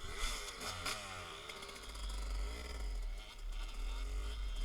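Dirt bike engines revving at a motocross track, several pitches rising and falling and crossing each other. From about two seconds in, wind buffets the microphone with a heavy low rumble.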